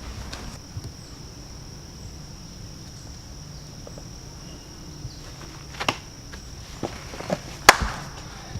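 Crickets or other insects chirring steadily at a high pitch, with a handful of sharp clicks or knocks near the end, one much louder than the rest.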